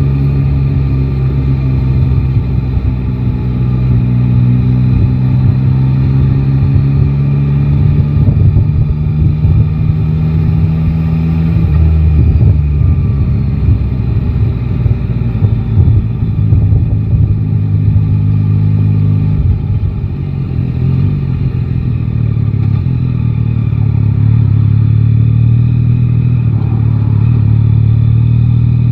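Yamaha Tracer 9 GT's three-cylinder engine running in city riding, its pitch rising and falling with the throttle. It drops back a little past the middle and climbs again toward the end.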